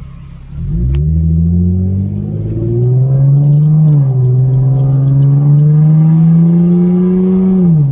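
Chevrolet Camaro engine revved up from idle about half a second in and held at high revs. It climbs further around three seconds, dips at four, rises slowly again, then drops back to idle near the end.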